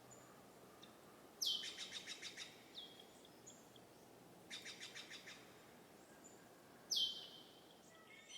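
Songbird singing in short phrases, three times: a sharp downward-sliding whistle, twice followed by a fast trill of about ten notes a second. Faint chirps and a quiet outdoor hiss run underneath.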